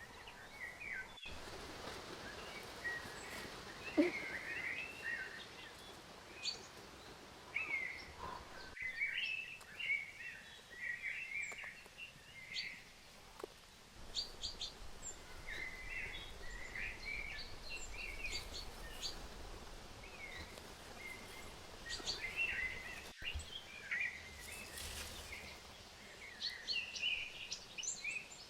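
Songbirds chirping and singing in short, scattered phrases over a faint steady forest hiss.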